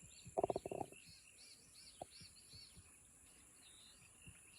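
Faint wetland ambience: small birds chirping over and over, high and quick, over a steady high-pitched drone. About half a second in comes a brief, louder cluster of low pulses.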